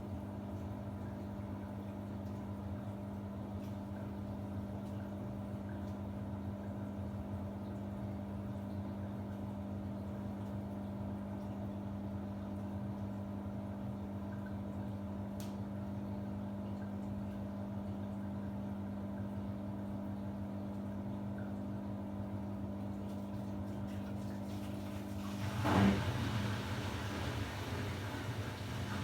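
Samsung WW90J5475FX front-loading washing machine in its rinse program: a steady low hum, then a sharp knock a few seconds before the end, followed by a louder rush of water.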